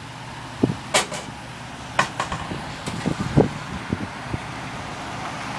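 Engine of a large sedan running steadily close by, with a few sharp knocks and clicks over it, the loudest about a second in and near the middle.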